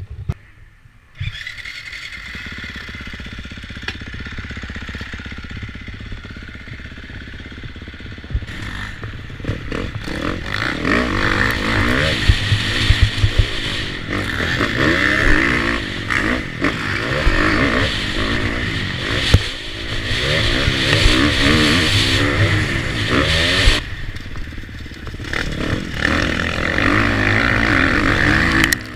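KTM motocross bike engine running steadily at low revs, then from about eight seconds in revving hard, its pitch rising and falling again and again with the throttle and gear changes as the bike is ridden, with scattered knocks.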